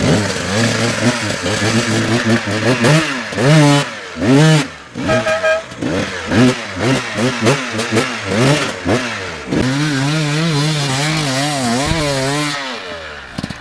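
Enduro dirt bike engine revving in quick repeated throttle blips, pitch rising and falling again and again, then holding a steady rev for a few seconds before dropping away near the end.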